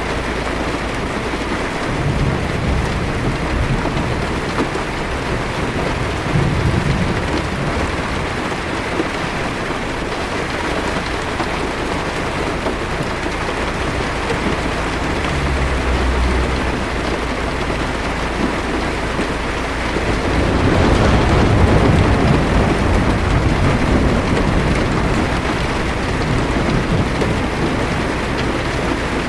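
Heavy rain falling steadily on a car's windshield, with low thunder rumbling: a few short rumbles and a longer, louder roll about twenty seconds in.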